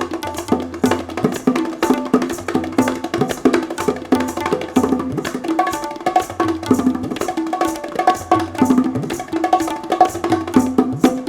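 Hand percussion duet of Cuban and Indian drums (bongos, cajon, tabla, kanjira) playing a fast, dense rhythm. Quick strokes follow closely one after another, mixed with ringing, pitched drum tones that bend slightly in pitch.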